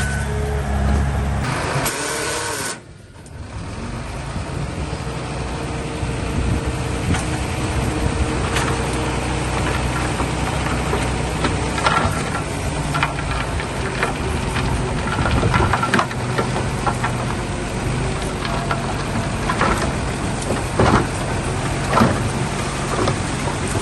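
Heavy diesel earthmoving machinery running steadily, with scattered sharp knocks and clanks in the second half. There is a brief drop in level about three seconds in.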